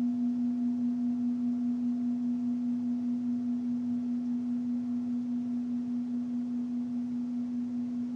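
A low-pitched singing bowl ringing on after being sounded, its tone wavering with a steady pulse and fading slowly, with a fainter higher overtone above it.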